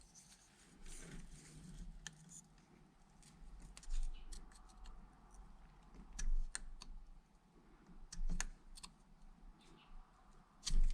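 Scattered light clicks and taps of hand tools and metal cable parts being handled, with several louder knocks spaced about two seconds apart.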